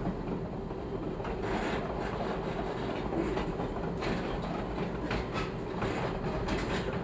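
Chicago 'L' rapid-transit train running on elevated track: a steady wheel rumble with irregular clicks and clacks as the wheels cross rail joints and switches.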